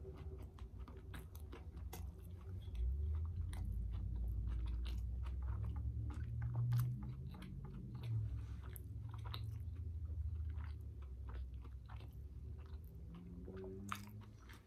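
A person chewing a mouthful of cheeseburger topped with a large cheese-curd patty, close to the microphone: wet chewing and lip-smacking with many small clicks. A low hum runs under it through the middle stretch.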